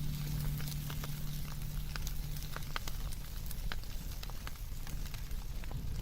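Wood fire crackling, with scattered sharp pops over a steady hiss. A low steady hum fades out in the first three seconds.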